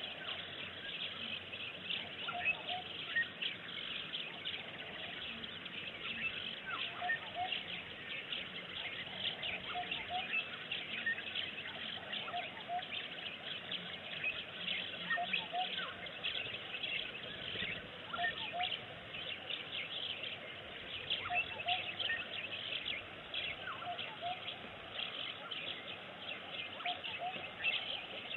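Wild birds chirping and calling, with a short double call repeating every second or two and many quick high chirps over a steady background hiss.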